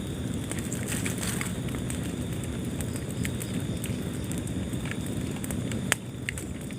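Fire burning in a fireplace: a steady low rumble of flames with scattered small crackles and one sharp pop about six seconds in.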